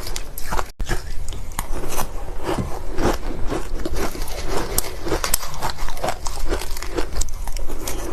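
Close-miked crunching of ice being bitten and chewed: a dense, irregular run of crisp crunches, with a brief full dropout under a second in.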